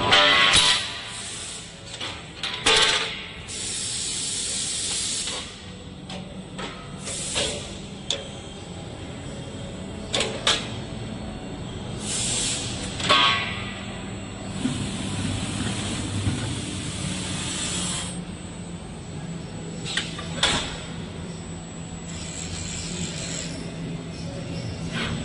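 Fiber laser tube cutting machine at work: repeated bursts of hissing, the longest about three seconds, over a steady low machine hum, with occasional sharp knocks.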